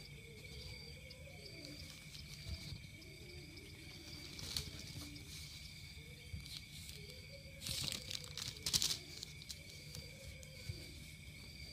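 Faint ambience: a steady high whine with a short chirp repeating at an even pace throughout, and a brief burst of rustling about eight seconds in.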